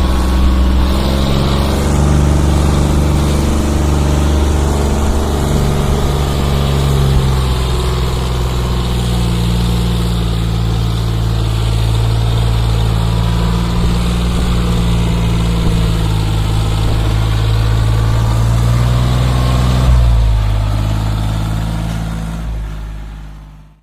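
Diesel tractor engine running steadily, its pitch shifting slightly a few times, then fading out near the end.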